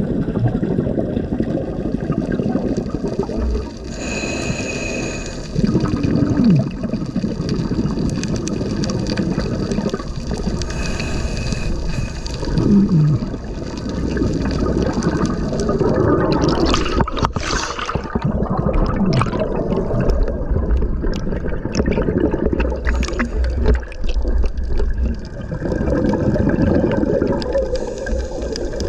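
Water churning and gurgling steadily, with irregular surges and a spell of sharper crackling about two thirds of the way through.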